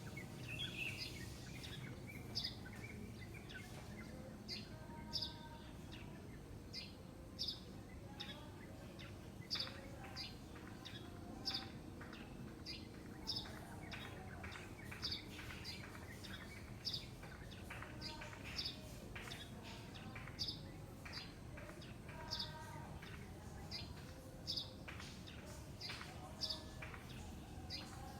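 Birds chirping: short, high chirps repeated about once or twice a second, over a steady low background noise.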